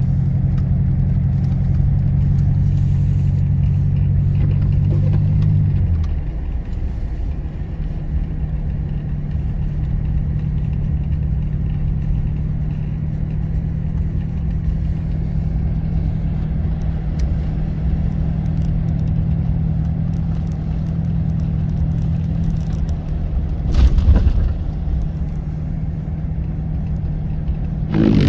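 An engine running steadily with a low hum, which changes about six seconds in and settles to one lower, steadier tone. There are two brief knocks, one about four seconds before the end and one at the very end.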